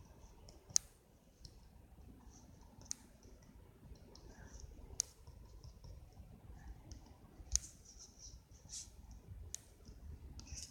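Sharp, isolated clicks, about one every one to two seconds, with faint soft scratching between them, as while coloring.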